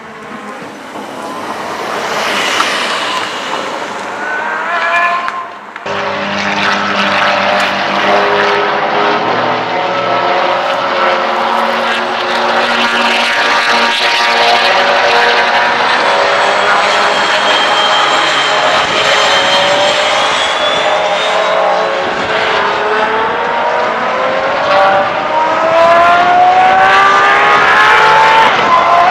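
Aston Martin Valkyrie's naturally aspirated Cosworth V12 revving high as the hypercar laps the circuit, its pitch climbing repeatedly through the gears. There is a sudden break about six seconds in, and near the end the engine note sweeps upward again, louder.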